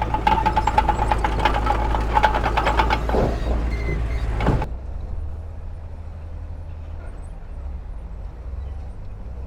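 Heavy earthmoving machinery: a diesel engine runs low and steady under dense metallic clatter and a steady high squeal. The clatter and squeal stop abruptly about four and a half seconds in, leaving the engine running on its own.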